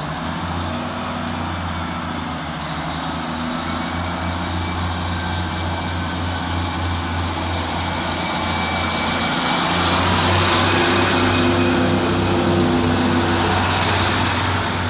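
Class 150 Sprinter diesel multiple unit pulling away under power, its underfloor Cummins diesel engines running hard with a steady low drone. It grows louder about two-thirds of the way through as it accelerates.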